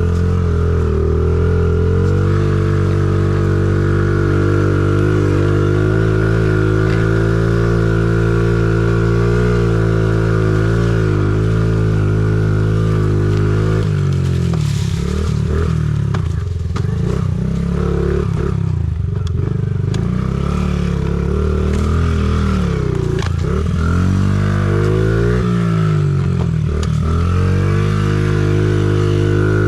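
Honda CRF50's small single-cylinder four-stroke engine running hard through a lap on a dirt track. The engine note holds fairly steady for the first half, then rises and falls repeatedly with the throttle.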